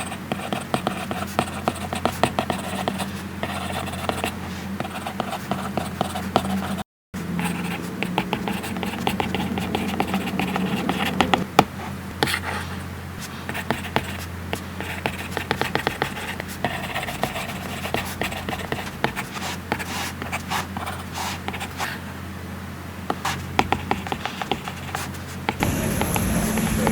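Stylus tip tapping and scratching across an iPad Pro screen fitted with a matte paper-like protector, writing in quick, irregular strokes. Near the end a steady high hiss comes in.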